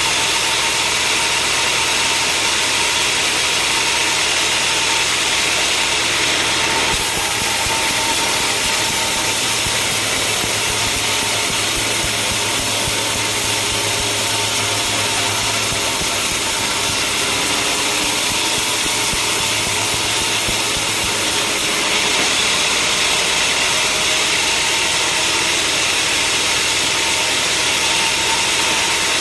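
Sawmill machinery running steadily. From about seven seconds in it turns harsher and brighter, then goes back to the steadier running sound about fifteen seconds later.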